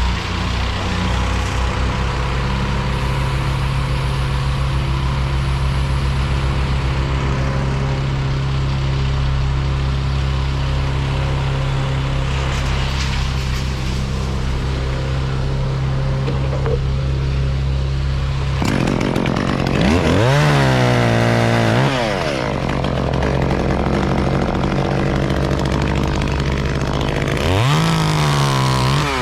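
Chainsaw running steadily at low speed, revved up and back down twice: once about two-thirds of the way in, and again near the end.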